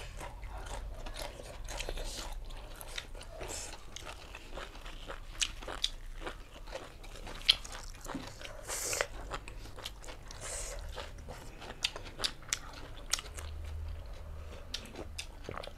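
Close-up eating sounds: chewing and biting food, with many short, sharp mouth and food clicks scattered throughout.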